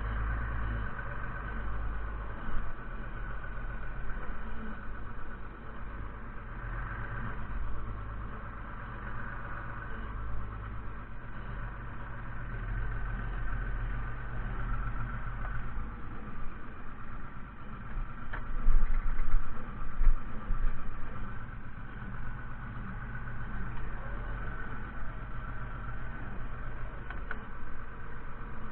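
Fiatagri 130-90 tractor's diesel engine running steadily, with a few louder surges about two-thirds of the way through.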